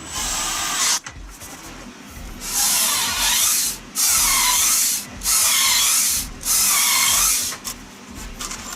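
Saw cutting through a pine 2x4 in five rasping strokes of about a second each, with short pauses between them.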